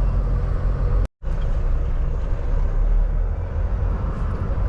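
Semi truck's diesel engine running steadily with road noise, heard from inside the cab. The sound cuts out briefly about a second in.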